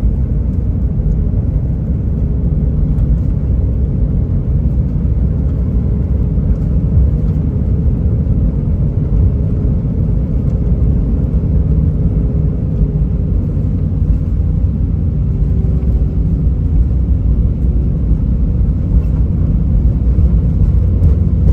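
Steady low rumble in the cabin of an Airbus A319 taxiing after landing: engines at idle and the wheels rolling, with a faint steady hum running through it.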